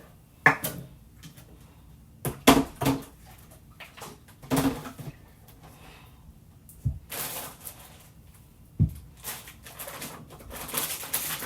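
Household items being picked up, shifted and set down: a string of irregular knocks and clatters with stretches of rustling, the longest near the end.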